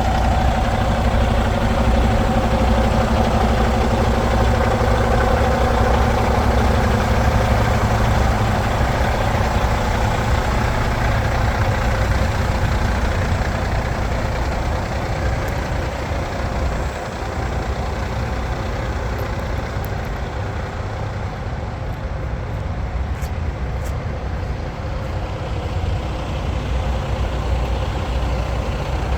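Cummins X15 15-litre six-cylinder diesel of a Kenworth T880 dump truck idling steadily.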